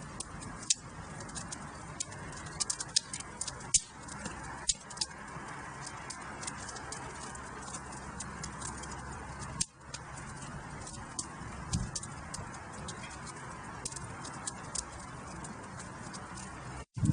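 Wood fire crackling in a fireplace: a steady hiss of burning with frequent sharp pops and snaps, cut by a brief dropout just before the end.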